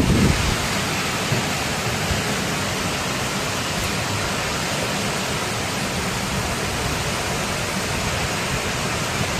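Heavy storm rain pouring down in a steady, even rushing hiss.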